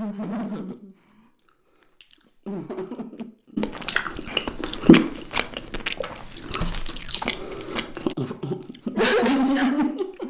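Someone chewing and crunching food close to the microphone: a dense run of wet clicks and crackles that starts about a third of the way in and goes on to the end.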